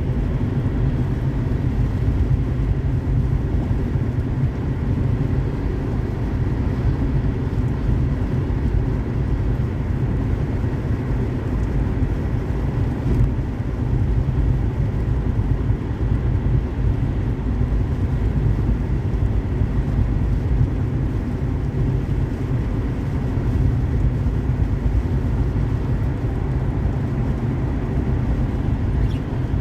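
Car driving at highway speed: a steady, low rumble of tyre and road noise with engine drone.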